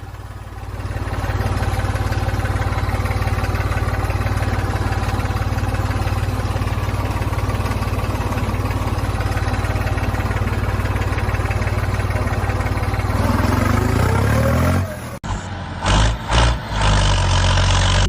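A steady engine-like motor hum that rises in pitch about thirteen seconds in, then breaks off abruptly and gives way to short uneven pulses near the end.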